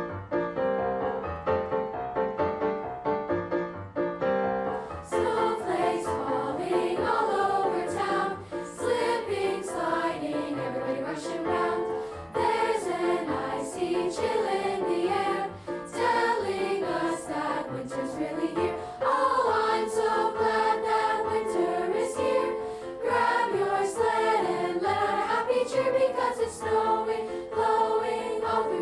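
A school choir singing a Christmas song with piano accompaniment; the piano plays alone for about the first five seconds before the voices come in.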